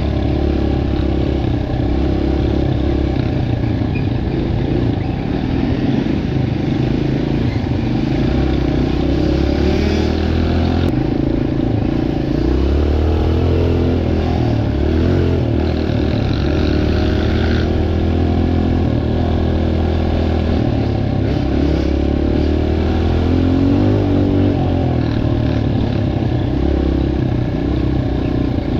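Dirt bike engine running under way, its pitch rising and falling with the throttle throughout.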